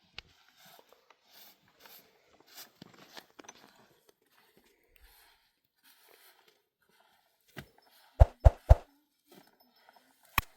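Faint scattered rustling and handling noises, then three quick, sharp knocks about eight seconds in and another single knock near the end.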